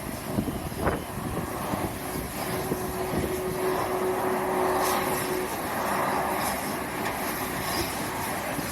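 Strong wind buffeting the microphone over a steady rumble of jet aircraft engines, with a faint steady hum for a few seconds around the middle.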